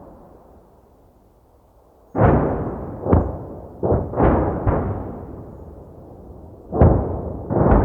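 Explosion sound effects: a string of about seven sharp booms, each dying away quickly. They start about two seconds in, after a quiet stretch, and come in two clusters.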